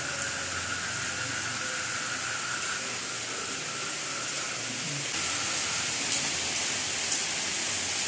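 Steady heavy rain falling: a constant hiss, with a couple of sharper ticks near the end.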